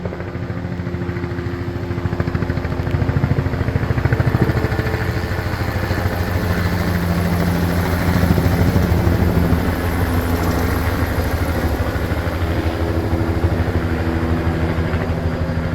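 Helicopter passing low and slow overhead, its rotor blades slapping in a rapid, steady beat over the engine's drone, growing louder over the first few seconds. The heavy slap is, to the onlooker, the sign of a very poorly balanced rotor head.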